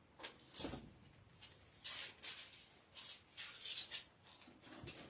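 Bible pages rustling as they are leafed through, in several short bursts over the seconds.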